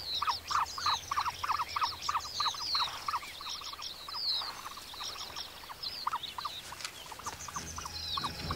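Ostrich chicks calling: a busy string of short chirps, several a second, with thin falling peeps mixed in.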